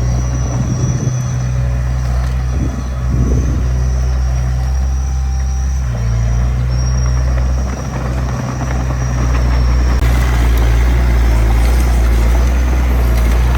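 Diesel engine of heavy earthmoving machinery running steadily under load, with a thin high-pitched whine on and off. It gets louder and harsher about ten seconds in.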